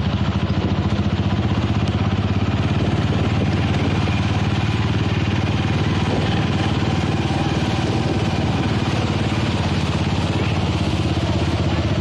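Motorcycle engine of a motorcycle-and-sidecar tricycle running steadily at a fast even putter while riding through shallow floodwater, with a steady hiss of water and road noise over it.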